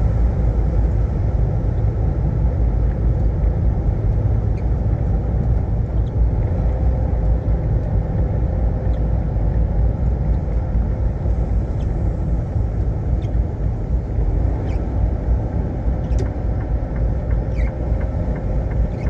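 Semi-truck on the move: a steady, low rumble of engine and road noise, with a faint steady hum through it.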